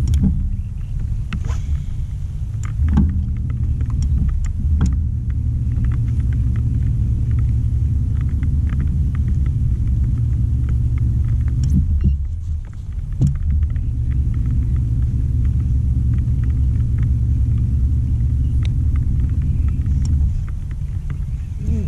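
An engine running steadily with a low, even rumble, dipping briefly about halfway through. Scattered light clicks sit on top of it.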